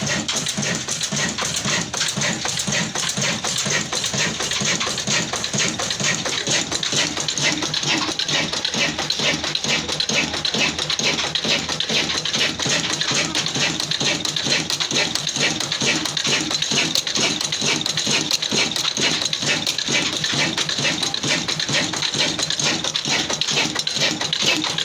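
Old black single-cylinder diesel engine running with a steady, rapid beat of firing strokes.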